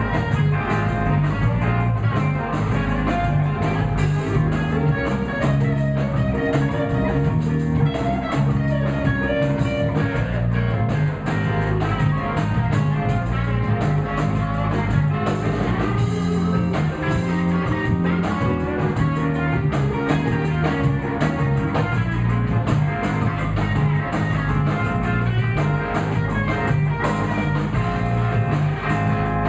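Live blues band playing an instrumental passage: guitar over drums, steady and continuous with no singing.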